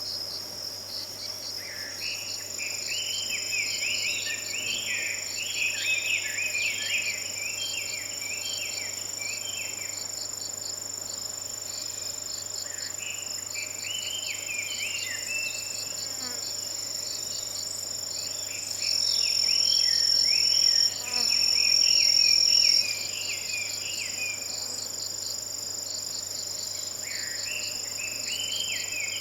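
A Chinese hwamei (Garrulax canorus) sings bouts of loud, varied, fast-changing phrases over a steady chorus of autumn insects trilling and chirping in quick pulses. Near the middle, a louder high insect trill runs for about four seconds with a short break.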